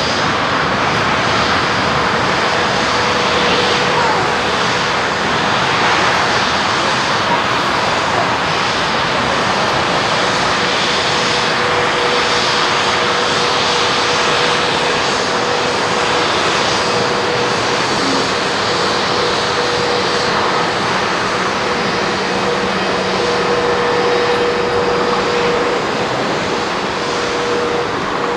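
Airbus A320neo jet engines running loud and steady, a dense rushing noise with a steady hum through it.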